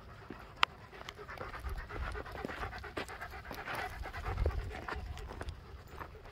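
Dogs panting, an uneven rasping rhythm of quick breaths, with a single sharp click about two-thirds of a second in.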